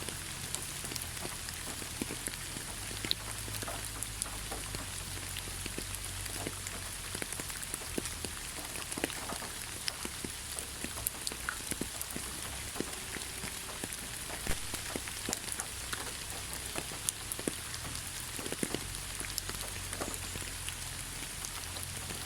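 Steady rain falling on foliage and the ground, an even hiss with many separate drops ticking and pattering on top.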